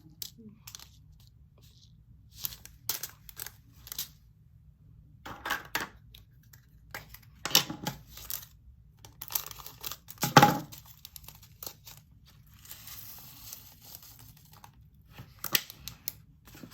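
Diamond painting drills, tiny resin beads, poured from small plastic bags into plastic storage containers: intermittent rattling of the beads and crinkling of the bags, with the loudest bursts about a third and two-thirds of the way through.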